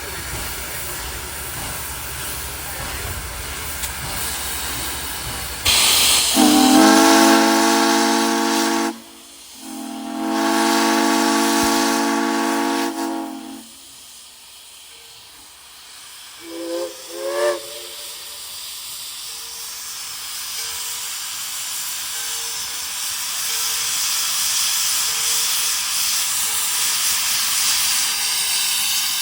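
Steam locomotive's chime whistle sounding two long blasts, followed by two brief toots, over the steady hiss of escaping steam that grows louder near the end.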